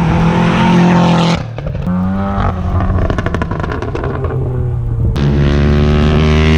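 Sport motorcycle engines running and revving, the engine note changing abruptly a few times, with a rapid pulsing stretch in the middle.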